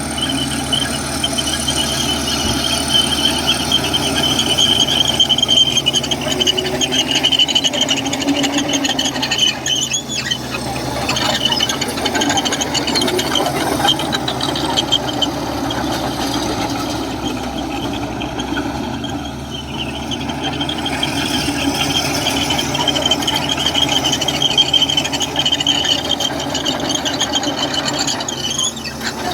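Komatsu crawler bulldozer working, its diesel engine running with a steady high-pitched squeal from the steel tracks that swells and fades.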